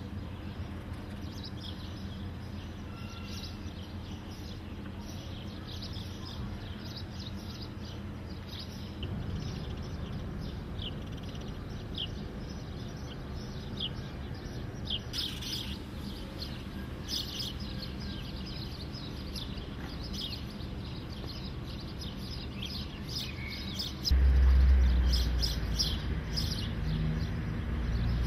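Small birds chirping, many short high chirps scattered through, over a steady low background rumble that gets clearly louder near the end.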